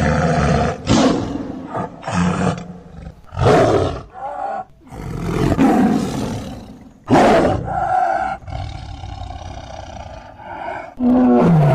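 Tiger roaring again and again: a string of loud roars at uneven gaps, the last one near the end falling in pitch.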